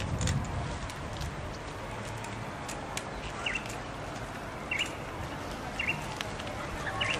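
A bird chirps briefly four times over a steady low outdoor hum, the chirps starting a few seconds in, about one every second and a bit, with a few faint clicks.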